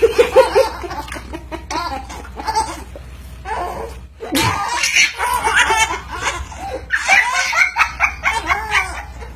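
People laughing in repeated bursts, dropping off briefly about four seconds in, then laughing again.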